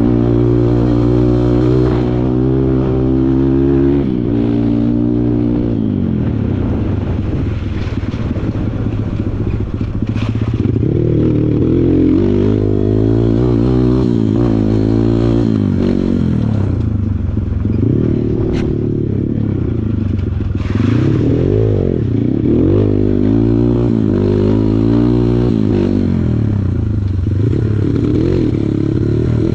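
Kawasaki KLX140 dirt bike's single-cylinder four-stroke engine being ridden hard on a trail: held at high revs for the first few seconds, then dropping and revving up and down again and again as the throttle is worked.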